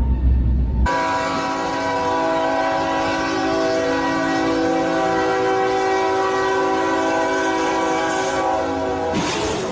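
Locomotive air horn sounding one long, steady chord that cuts in about a second in and is held without a break, with a brief rush of noise near the end.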